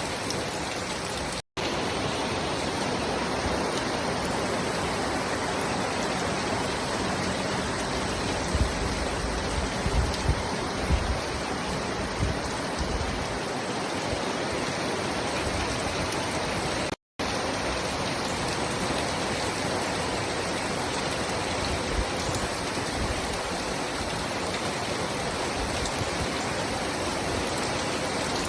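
Steady rain falling, an even hiss of many drops, with a few low thumps about ten seconds in. The sound cuts out completely for an instant twice.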